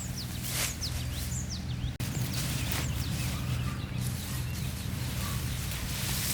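Small birds chirping: a quick run of short falling notes in the first two seconds, over a steady rural background, with a brief rustle or scrape now and then.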